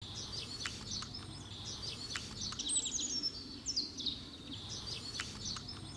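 Songbirds chirping and singing, with a quick run of falling notes about three seconds in.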